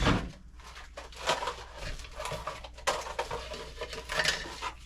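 Food packages and containers being handled and put away on pantry shelves: irregular rustling with light knocks and clatters, the loudest right at the start.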